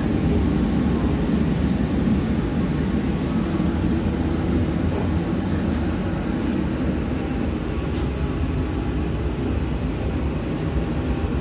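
Cabin noise inside an EN57AKM electric multiple unit on the move: a steady rumble of wheels and running gear on the rails, with a few light clicks about five and eight seconds in.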